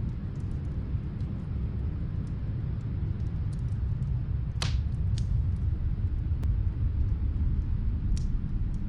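Steady low rumble of snowstorm wind with faint, scattered fireplace crackles; a sharper snap from the fire about halfway through and another near the end.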